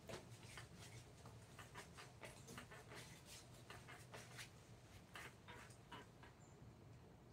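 Faint, irregular scratching strokes of a hand tool on wood, several a second, stopping about six seconds in, over a steady low hum.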